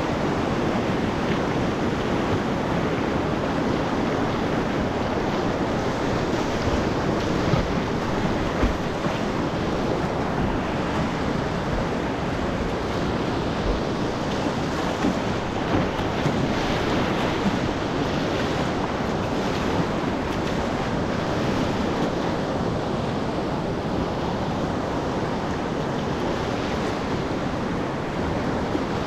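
Steady rush of whitewater rapids heard close from a kayak on the river, with a few short louder hits in the middle.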